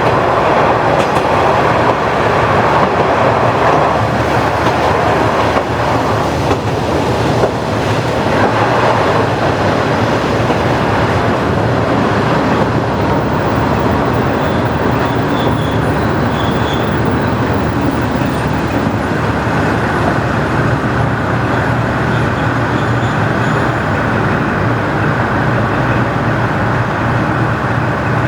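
JNR KiHa 40-series diesel railcar with its original DMF15HSA engine running on the line: a continuous, steady mix of engine and wheel-on-rail noise. A faint steady tone joins it about two-thirds of the way through.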